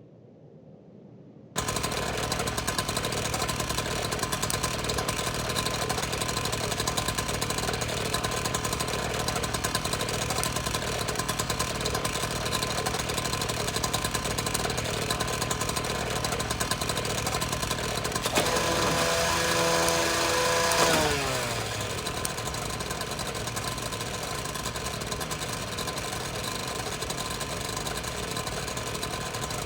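A small electric machine switched on about a second and a half in, buzzing steadily. A louder pitched whine joins it for about three seconds in the second half, drops in pitch and dies away.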